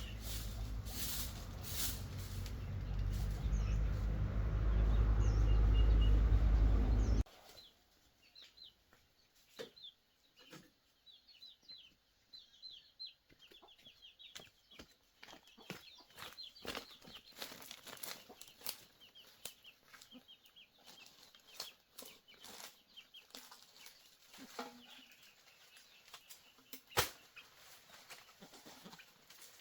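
A loud low rumbling noise that grows for about seven seconds and then cuts off abruptly. Chickens follow, clucking with many short high peeps and scattered sharp taps, with one louder tap near the end.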